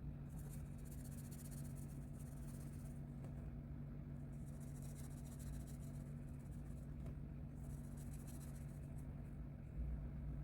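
Colouring strokes scratching on paper, in three spells of quick back-and-forth strokes, over a steady low hum. There is a soft low bump near the end.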